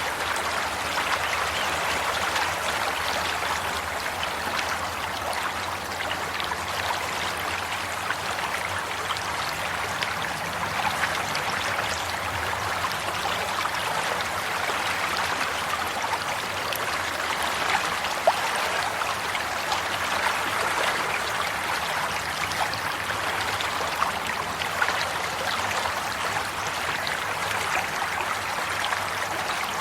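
Flowing water, a stream running steadily over stones with a constant trickling and babbling, and a few slightly louder splashes.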